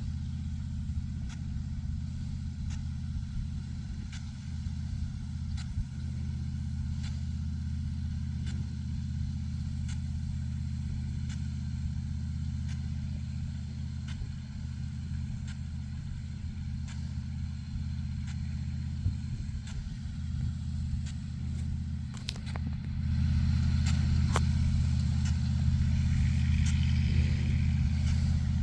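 A large engine running at a steady speed, a low drone with faint ticks through it. It grows louder about 23 seconds in and stays that way.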